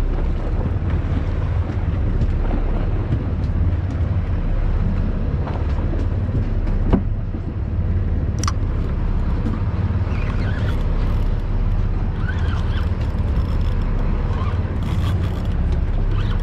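Boat engine running with a steady low drone, with a couple of sharp knocks partway through.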